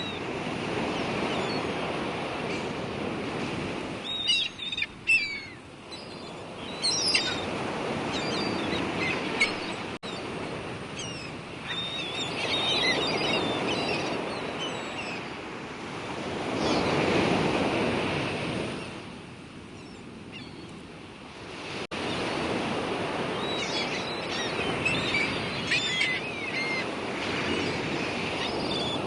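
Outdoor nature sounds: a steady rushing like surf or wind swells and ebbs every few seconds, loudest about halfway through. Small birds chirp over it in short bouts.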